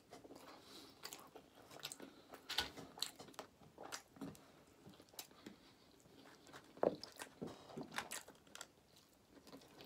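Chewing a mouthful of queso-dipped burrito, with wet smacking and clicking mouth sounds at irregular moments and one louder smack about seven seconds in.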